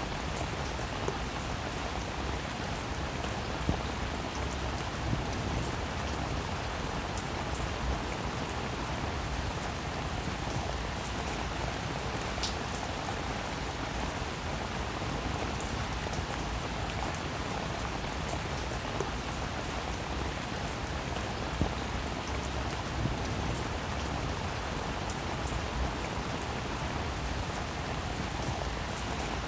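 Steady rain falling, with a continuous hiss and scattered sharper drops ticking on a surface.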